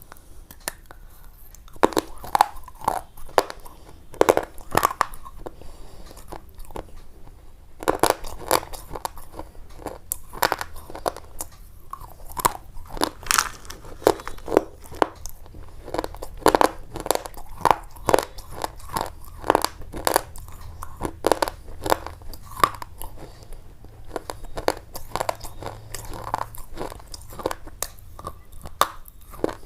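An irregular, rapid run of sharp crunching clicks, several a second.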